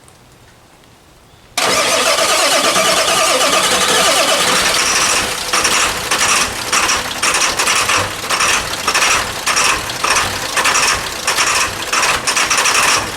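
Ford 7.3 Power Stroke V8 turbo diesel being cranked for a cold start after sitting all winter. The sound comes in suddenly about a second and a half in, and from about five seconds in it pulses roughly twice a second.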